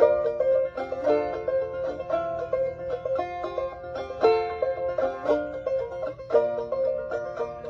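Five-string banjo being picked, a steady run of quick plucked notes.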